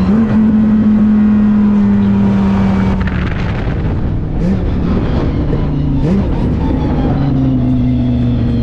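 Twin-turbo 8.4-litre V10 of a fifth-generation Dodge Viper heard from inside the cabin, holding a steady high engine note under power for about three seconds, then easing off, with two brief rises in pitch and a lower steady note near the end.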